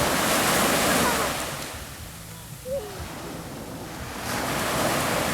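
Sea waves breaking and washing up a beach: a wave rushes in, dies down after about two seconds, and another builds and breaks near the end. A brief faint voice cuts in around the middle.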